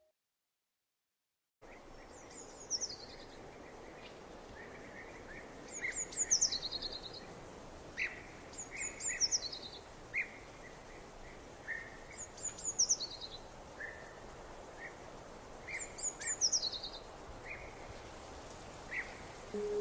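A songbird repeating the same short, high, descending phrase about every three seconds, with softer lower chirps in between, over a steady background hiss. It begins after a second and a half of silence.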